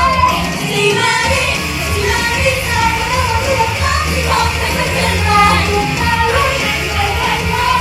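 Upbeat idol pop song with female singing over a heavy band backing track, played loud over a live sound system.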